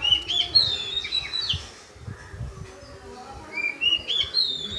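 A bird singing: two phrases of clear whistled notes that step up and sweep in pitch, one at the start and another near the end.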